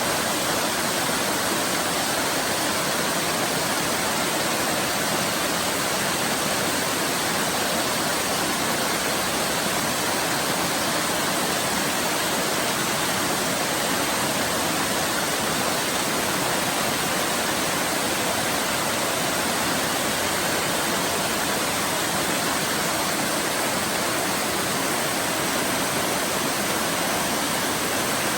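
Waterfall pouring steadily: an even, unbroken rush of falling water that holds the same level throughout.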